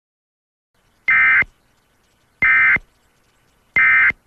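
Emergency Alert System end-of-message data burst: three short bursts of two-tone digital data screech, about 1.3 seconds apart, signalling the end of the alert.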